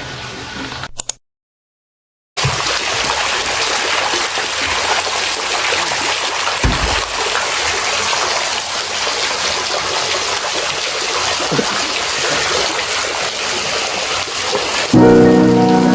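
Water running and splashing steadily, after a brief cut to silence early on; music comes in near the end.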